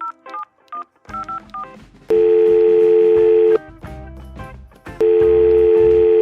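Telephone call being placed: a run of short phone keypad beeps, then two long, steady ringback tones, each about a second and a half, over background music.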